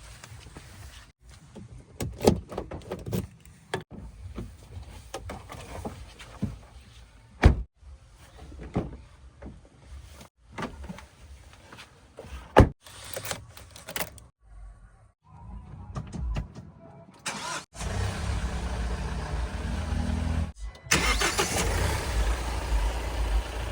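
Heavy diesel engine running, with scattered sharp knocks and clunks over the first half. In the last few seconds the engine settles into a steady drone that grows louder.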